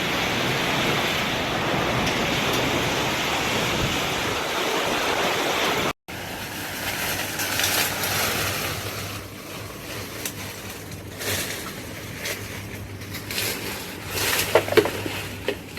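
Storm noise of heavy rain and strong wind, a dense even rush over a low steady hum. After a cut about six seconds in it eases, with scattered taps and knocks, a few louder ones near the end.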